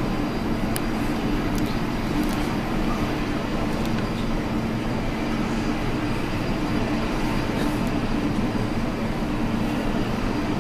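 Airbus A320 jet engines running, a steady rumble with a low hum that holds the same level throughout.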